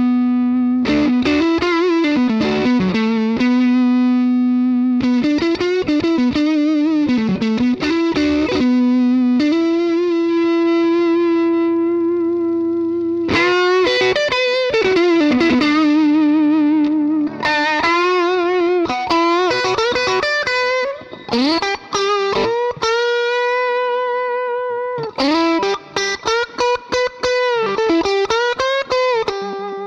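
Electric guitar played through a DemonFX Gravity effects pedal and a Nux Amp Academy preamp: a melodic single-note lead of long held notes with vibrato and slides between notes, broken by short pauses between phrases in the second half.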